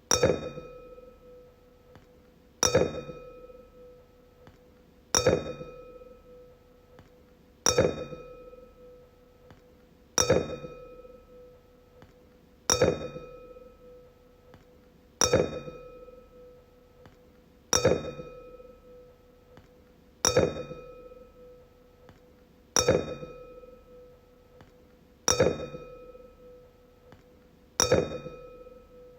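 A wine glass struck over and over, about once every two and a half seconds, each tap ringing out in a clear, steady tone that fades before the next.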